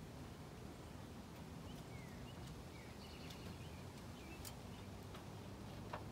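Faint outdoor ambience: a few brief bird chirps over a steady low hum, with a click or two near the end.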